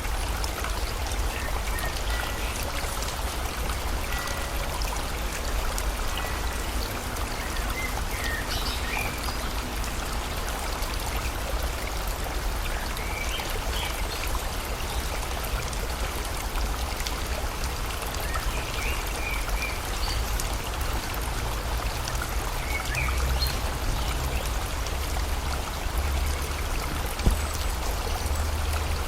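Steady rushing of a river with rain falling, and faint short bird chirps now and then. A single sharp tick near the end.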